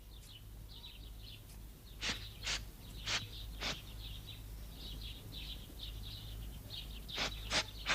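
Birds chirping, with a steady twitter of small high chirps and a few louder, sharper calls about two to four seconds in and again near the end, over a faint low hum.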